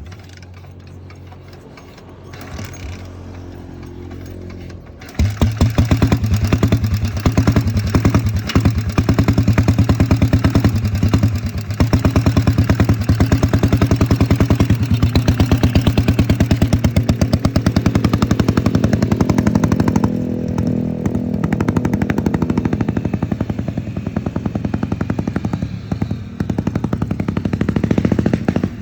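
Diesel engine of a custom chopper-style motorcycle that fires up about five seconds in, after a quieter low hum, and then runs with loud, rapid, evenly spaced exhaust knocks.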